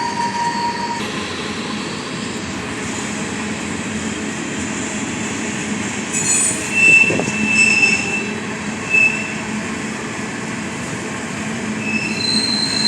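Train rolling past on the tracks with a steady rumble, its steel wheels squealing against the rails in short high-pitched squeals about halfway through and again in a longer squeal near the end.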